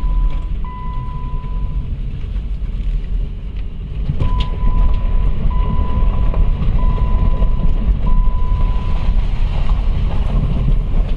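2010 Chrysler Sebring's 2.7 L V6 running as the car is driven slowly, heard inside the cabin, under a dashboard warning chime. The chime beeps in a series of even, single-pitched tones about a second long, pausing for a couple of seconds before starting again.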